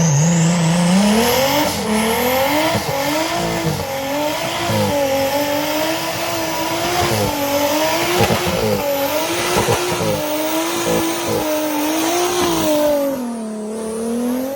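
Toyota 2JZ inline-six engine in a Jeep Cherokee XJ revving hard, its pitch rising and falling again and again under off-road load, over a steady hiss. A few short knocks come about two-thirds of the way through.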